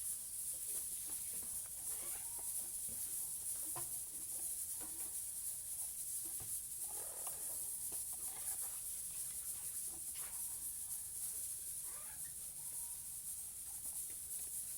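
Parrots making short, scattered calls and chatters under a steady high hiss.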